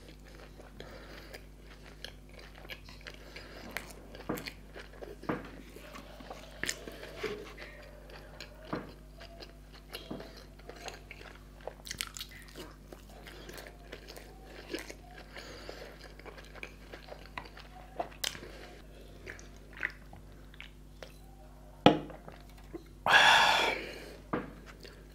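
Close-miked chewing and biting of food, with many small, sharp mouth clicks scattered throughout. Near the end comes a louder, noisy sound lasting about a second.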